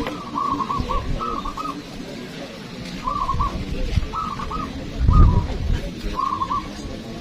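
Zebra doves (perkutut) cooing: short rolling coo phrases repeated every second or so. A dull low thump comes about five seconds in.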